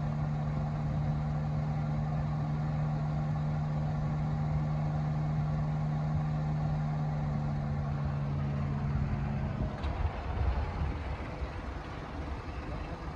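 Suzuki Mehran's small three-cylinder engine running at a steady speed, a steady drone heard inside the cabin. About ten seconds in it gives way to a quieter, rougher low rumble of the car heard from outside.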